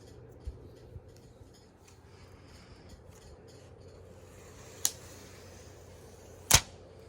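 Handling noises from an unboxing: light rustling with two soft thumps early on, then two sharp clicks about a second and a half apart near the end, the second one the loudest.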